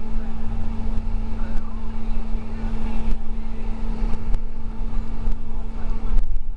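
School bus running along the road, heard from inside the cabin: a steady low engine-and-road rumble with a constant hum, and a few faint rattles.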